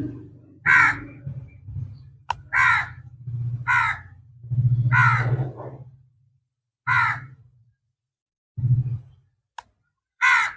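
A bird cawing outdoors: six harsh calls, each about half a second, spaced irregularly. A low rumble underlies the first half and fades out, and two short sharp clicks come between the calls.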